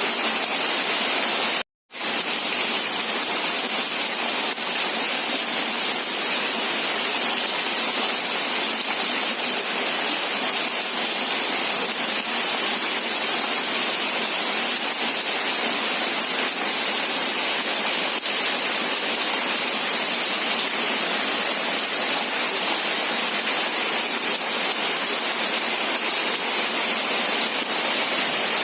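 Rain falling steadily, an even hiss strongest in the high treble, broken once by a split-second cut to silence about two seconds in.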